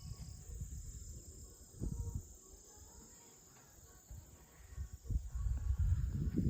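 Steady high-pitched chirring of insects. Low rumbles come through about two seconds in and again from about five seconds on.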